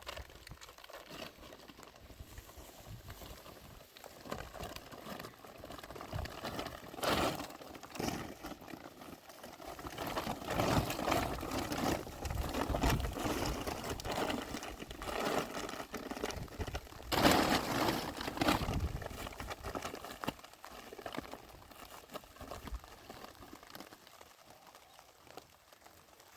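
Plastic bags rustling and crinkling as they are handled, in irregular bursts with quieter pauses between.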